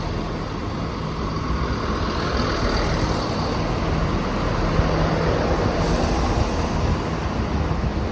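Class 170 Turbostar diesel multiple unit running past, its underfloor diesel engines giving a steady drone.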